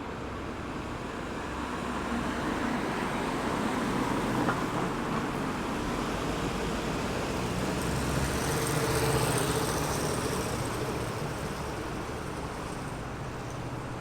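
Road traffic passing a roundabout: two vehicles swell up and fade away, one about four seconds in and a louder one with a low engine drone about nine seconds in, over a steady traffic hum.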